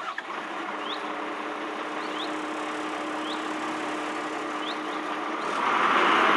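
A small motor running with a steady whirr and a low hum, getting louder about five and a half seconds in. A few short rising chirps sound over it.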